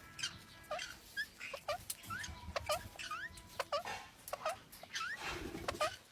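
Pet ringneck parrots chirping: a run of short rising chirps, about two a second, with scattered faint clicks.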